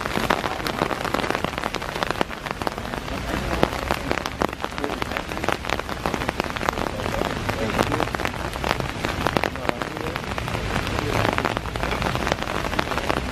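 Heavy rain shower falling steadily, an even hiss with many sharp drop hits close by.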